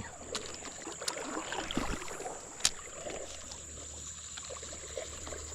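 Creek water running and lapping around a kayak, with a couple of faint clicks and a steady faint high-pitched tone.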